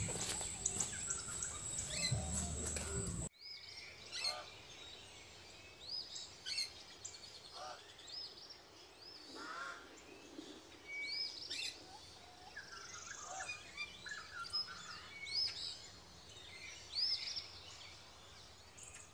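Small birds chirping in woodland: faint, scattered short arching chirps over a quiet background. In the first few seconds, before an abrupt drop in level, there is louder outdoor noise with a steady high whine.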